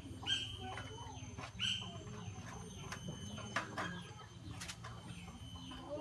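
Two short, sharp bird calls about a second and a half apart near the start, followed by a few light clicks and knocks.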